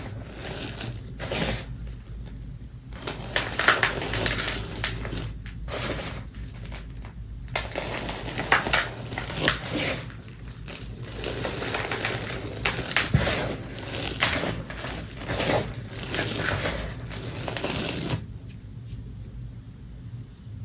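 Reformed gym chalk being crushed and crumbled by hand, a crunchy, dusty crackling in repeated bursts that stops about eighteen seconds in.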